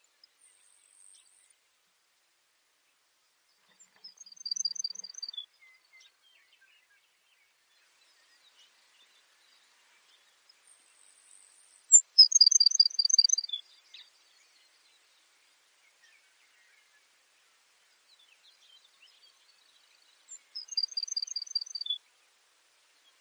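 Baird's sparrow singing three times, each song a quick run of high, clipped notes ending on a single lower note.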